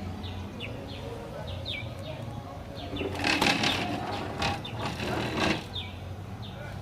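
A small bird calling: short chirps that slide downward, repeated about once a second. A louder burst of rustling noise from about three seconds in to about five and a half seconds in, over a steady low rumble.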